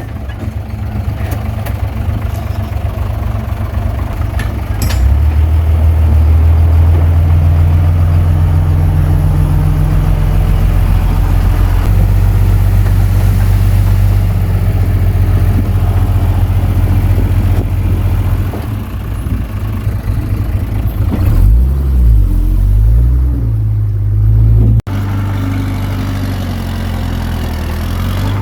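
Komatsu D21P bulldozer's diesel engine working under load. The engine note rises about five seconds in and swings up and down several times near the end.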